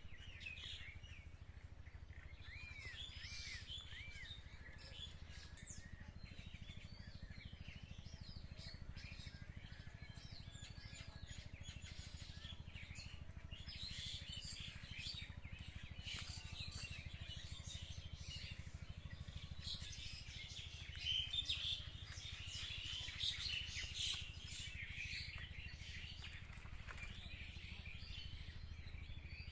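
Many songbirds chirping and calling at once, a busy chorus of short tweets that is loudest about two-thirds of the way through, over a low steady rumble.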